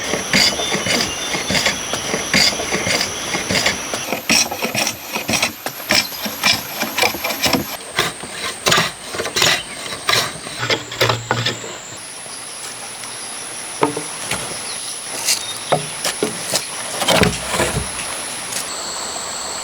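Woodworking with hand tools: repeated sharp knocks and taps on wood. The sound comes in short clips that change every few seconds, each over a steady high whine.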